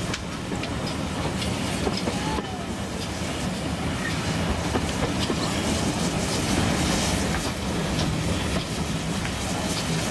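Running noise of a steam-hauled passenger train heard from inside a carriage: a steady rumble with light, irregular clicks from the wheels over the rail joints.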